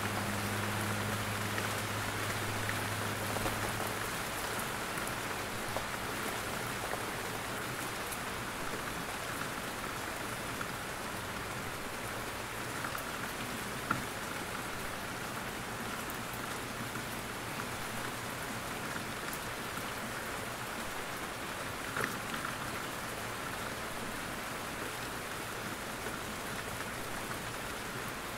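Steady rain falling in a forest, drops pattering on leaves and the ground, with a couple of sharper single drops landing now and then.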